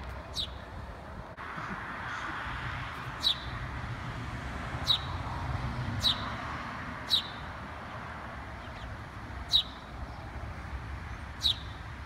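A small songbird giving sharp, short chirps that drop in pitch, seven of them, one every one to two seconds, over steady background noise.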